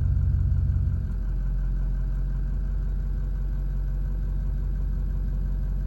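Ford 6.0L Power Stroke V8 turbo-diesel idling just after starting. About a second in, the idle drops and settles to a steady, lower note.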